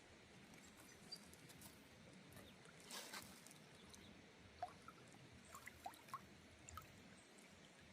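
Near silence: faint outdoor background hiss with a few brief small ticks and chirps, and a short faint rush of noise about three seconds in.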